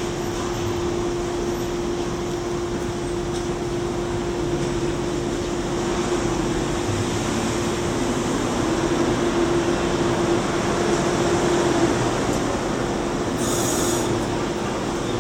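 New York City M subway train running at the station: a steady rumble with a constant hum, getting a little louder through the middle. A short hiss sounds about a second before the end.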